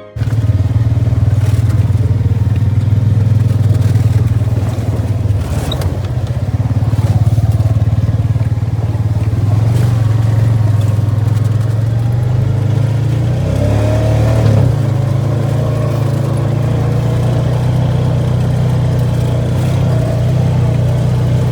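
ATV engine running steadily while riding, with a few knocks and rattles a few seconds in and a wavering change in engine pitch about two-thirds of the way through.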